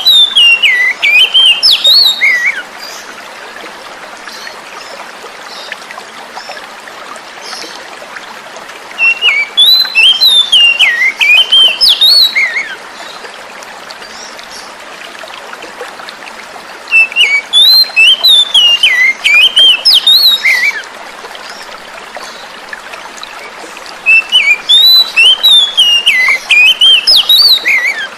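Oriental magpie-robin (kacer) singing: bouts of quick, varied whistled phrases a few seconds long, recurring about every seven to eight seconds. The song is a lure track meant to prompt a silent captive bird to sing. Running water rushes steadily underneath.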